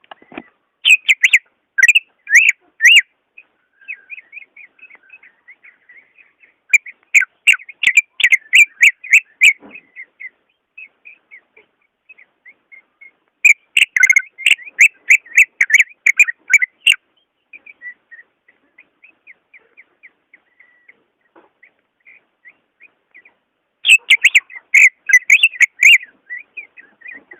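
Cucak ijo (leafbird) singing: four loud bursts of rapid, whistled notes lasting a few seconds each, with softer twittering between them.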